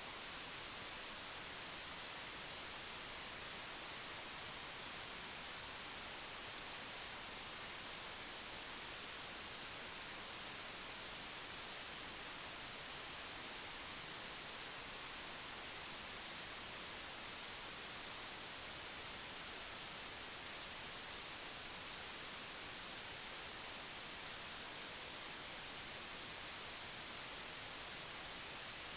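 Steady, even hiss like static, brighter in the high range, with no other sound standing out.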